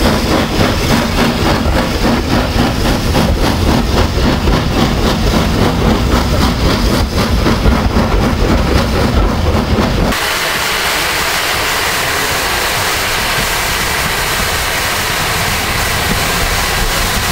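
Steam train running with a fast, even rhythmic beat. About ten seconds in, this cuts off suddenly and gives way to a steady, even noise with little bass.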